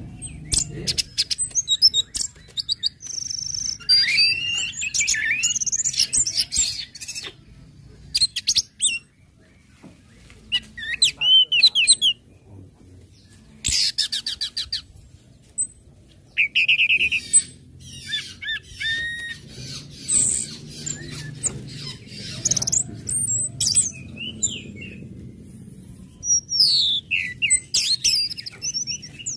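Orange-headed thrush singing a varied song in short bursts of rapid high trills, chips and whistled phrases, with brief pauses between them.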